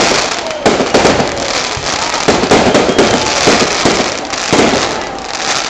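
Fireworks going off at a display: a rapid run of loud bangs, roughly one every second, with crackling bursts between them.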